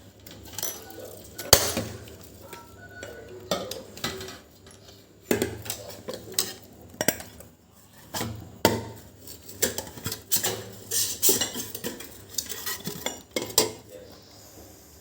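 Irregular sharp knocks, clinks and scrapes of metal kitchenware as someone struggles to work a frozen bottle loose from the freezer.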